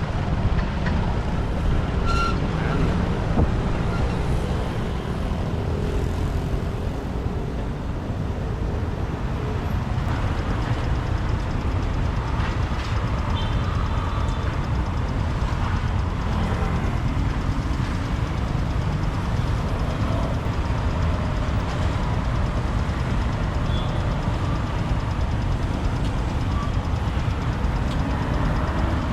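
Steady rumble of a motorbike riding through city traffic: its engine and the traffic noise of vehicles around it.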